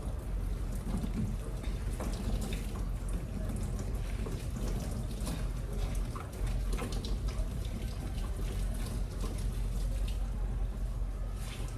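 Water splashing and dripping, in irregular bursts, as a soapy quilt is wrung out by hand over the wash tub of a twin-tub washing machine.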